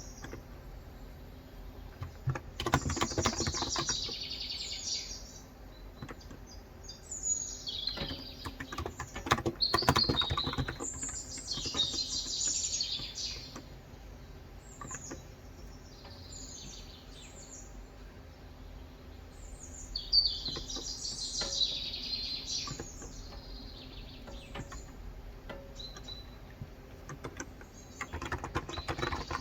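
Birds singing in repeated bright chirping phrases, with short runs of typing on a COX Endeavor electrostatic capacitive (35g, tenkeyless) keyboard in between. The birdsong comes in several bursts, and the key clicks cluster in a few stretches, including near the end.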